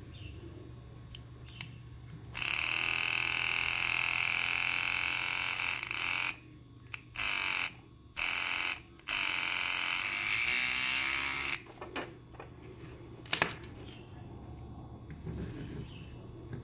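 Loud buzzing hiss of a high-voltage arc, switched on abruptly. It runs for about four seconds, cuts out briefly three times in quick succession, then runs for about two more seconds before stopping suddenly.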